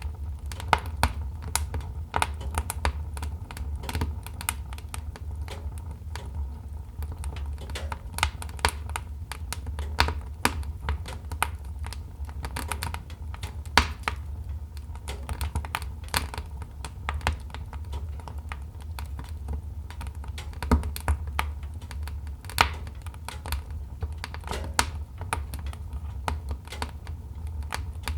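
Wood fire crackling in a fireplace: a dense, irregular run of small snaps with louder pops now and then, over a steady low rumble.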